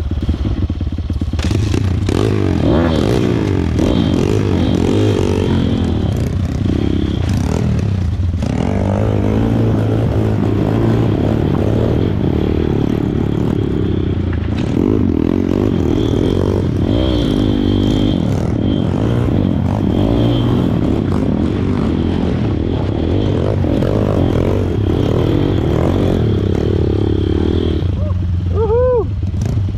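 Pit bike's small single-cylinder four-stroke engine running and being revved up and down as it is ridden over rough, wet ground, with some clattering and scraping.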